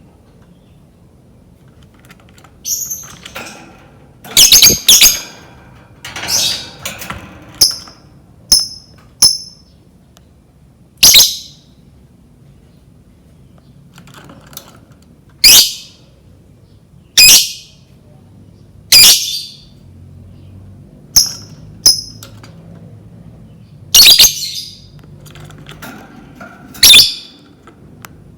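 Lovebird giving short, sharp, shrill calls at irregular intervals, about a dozen over the span, with a few shorter, fainter chirps in between.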